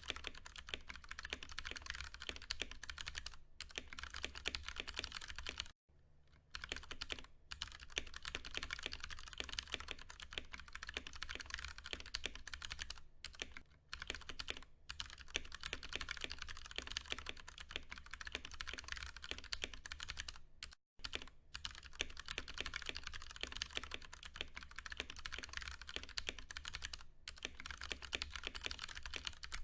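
Steady, fast typing on a Ducky One 2 Mini mechanical keyboard with Cherry MX Brown switches: a dense run of keystroke clacks, broken by brief pauses about six seconds in and again about twenty-one seconds in.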